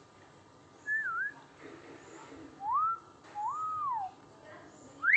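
Three clear whistled notes: a short wavy one about a second in, then a rising note and a longer rise-hold-fall note in the second half.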